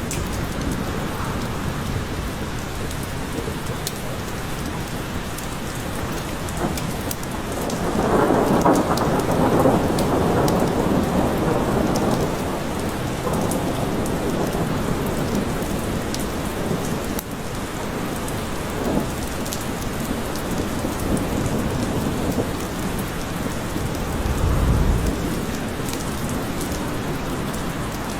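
Steady rain falling in a forest, with rolls of thunder: a long, louder roll about eight seconds in and a deep low rumble near the end.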